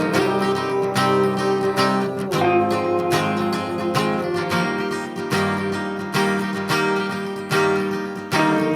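Acoustic guitar strummed in a steady rhythm through a chord progression, with no singing: the instrumental intro of a song.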